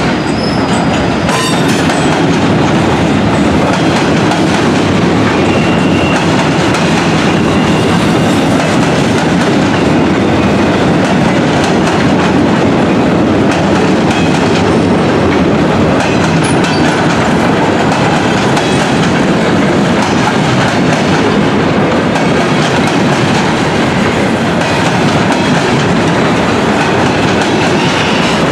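Freight train's cars rolling past at close range: a steady, loud noise of steel wheels on rail. A faint wheel squeal rises above it about six seconds in.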